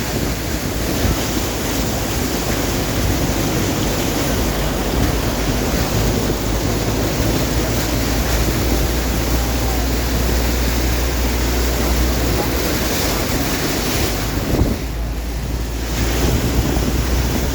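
Floodwater rushing across a highway: a loud, steady rush of water with wind buffeting the microphone. It dips briefly about fifteen seconds in.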